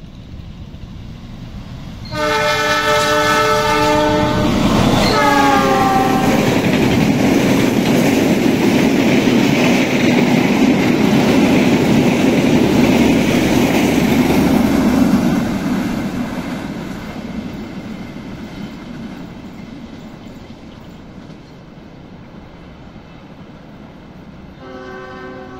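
A passing Indonesian passenger train's locomotive horn blasts about two seconds in and holds for about two seconds. A second blast drops in pitch as the locomotive goes by. The coaches' wheels then rumble and clatter along the rails for about ten seconds, fading as the train moves away, and a fainter horn sounds again near the end.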